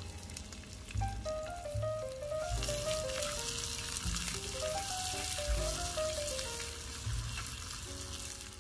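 Sliced onions frying in a miniature clay pot and stirred with a small spoon, the sizzling growing louder about two and a half seconds in. Background music with a simple melody and low beats plays underneath.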